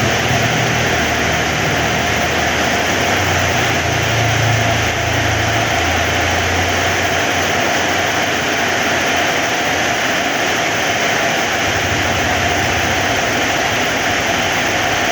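Heavy rain falling steadily, a dense even hiss, with a low rumble rising and falling underneath.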